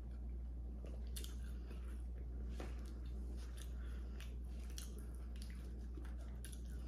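Close-miked chewing, with soft wet mouth clicks now and then over a steady low hum.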